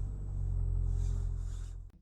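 Car engine and road noise heard inside a moving car: a steady low hum that cuts off suddenly near the end.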